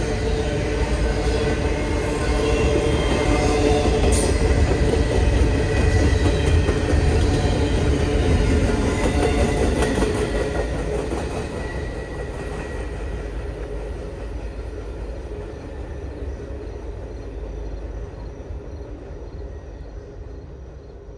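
Double-stack container cars at the tail of a long freight train rolling past on the rails, the wheels rumbling steadily with a sharp click about four seconds in. From about halfway through, the sound fades away as the end of the train moves off.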